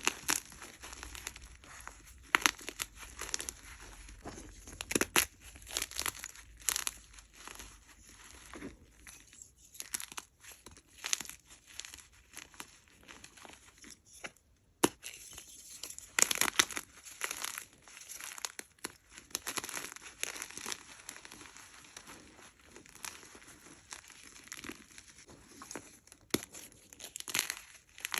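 Hard blocks of gym chalk being squeezed and crumbled: a dense, irregular run of dry crunching and crackling, with a sharp snap every few seconds.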